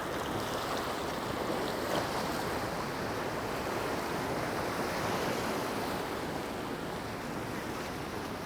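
Sea waves washing onto a sandy beach, with some wind on the microphone.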